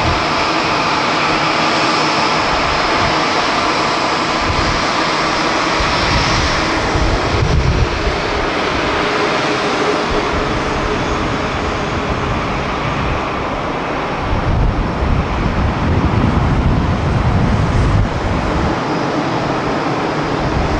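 Jet engines of a Singapore Airlines Boeing 787-10 airliner (Rolls-Royce Trent 1000) running steadily as it lands, a loud even rush with faint whining fan tones. Wind buffets the microphone in gusts.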